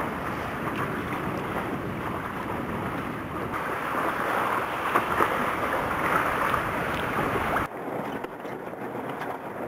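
Wind buffeting the microphone over the rush of water along a boat under way. It grows louder about halfway through, then cuts off abruptly to a quieter sound near the end.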